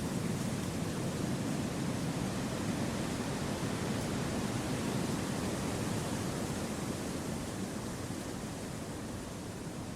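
Wind blowing through forest trees: a steady, even rushing noise with no distinct gusts, easing a little near the end.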